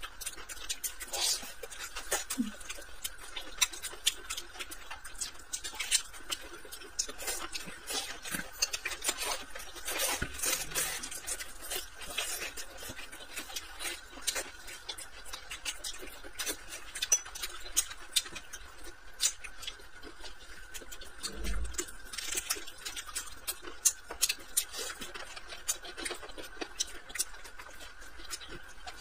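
Close-up eating sounds: chewing and lip smacking on fried rice wrapped in a soft, wet kelp leaf, heard as many small, irregular wet clicks.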